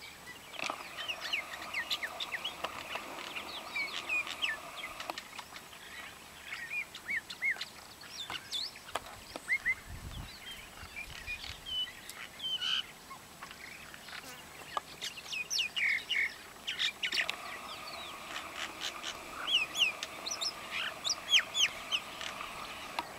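Wild birds chirping and calling, many short, quick whistled notes overlapping, over a steady high hum that fades out after a few seconds and returns about two-thirds of the way in.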